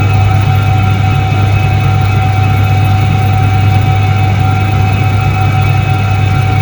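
1978 Soviet Iset-3 washing machine running: a steady, loud electric-motor hum with several constant whining tones above it, unchanging throughout.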